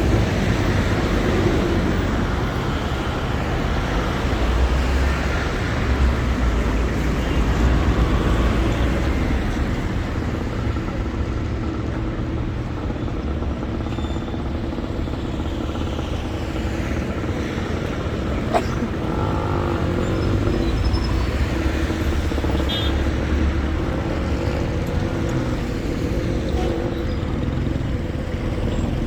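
City street traffic: cars passing steadily with engine rumble and road noise, and one sharp click partway through.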